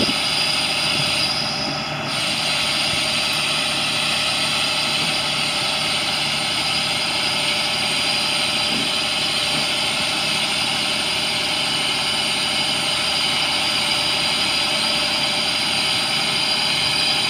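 International DT466 turbo diesel engine running steadily while the crane turns on hydraulic power, with a steady high whine on top. The sound dips briefly about two seconds in.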